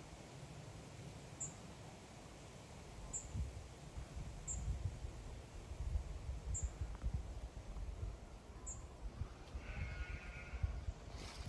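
Wind rumbling on the microphone, with one short, quavering sheep bleat near the end.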